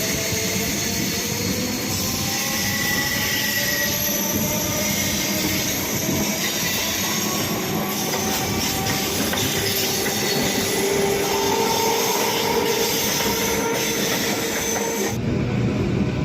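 Electric multiple-unit local train running, with a steady rumble and motor whine that climbs in pitch over the first few seconds, then holds, and some wheel squeal. About fifteen seconds in, the sound changes abruptly as the high hiss drops away.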